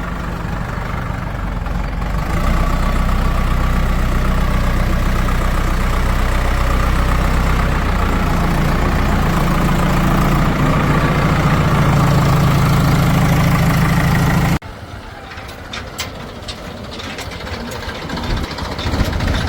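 Heavy diesel engine running, louder from about two seconds in and rising in speed as it takes load from about eight seconds. About three quarters of the way through it cuts off abruptly to a quieter mix of scattered clicks and knocks.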